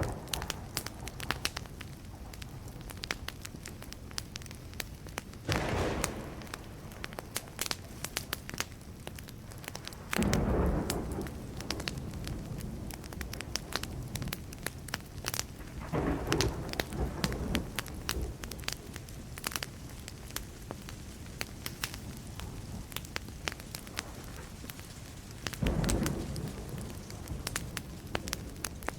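Burning wood crackling and popping steadily, with rapid sharp snaps. Four rumbles of distant thunder swell up and fade, each lasting a second or two, spread across the stretch.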